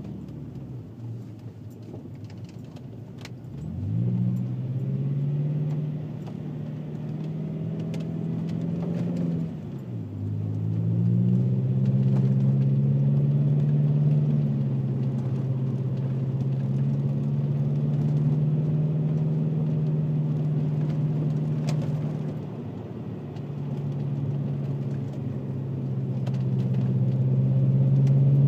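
VW Passat W8's 4.0-litre W8 engine, heard through its custom stainless exhaust with twin rear mufflers, while the car is being driven. The engine note climbs sharply about four seconds in, dips and picks up again about ten seconds in, then holds a steady drone, easing off briefly and building again toward the end.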